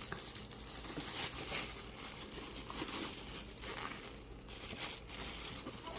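Packaging being handled while the hair dryer is unpacked, crinkling and rustling irregularly with a few sharper crackles.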